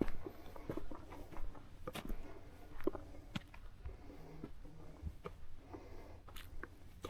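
A hiker's footsteps on a trail: irregular scuffs and sharp clicks with no steady rhythm.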